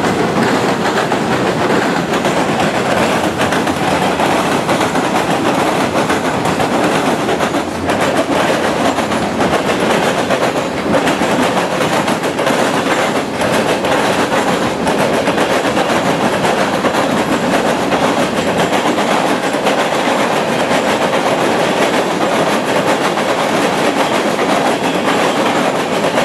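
Mixed freight trains rolling past at close range: a steady, loud rumble of wheels on rail, with a few sharp knocks and clicks as the wheels cross rail joints.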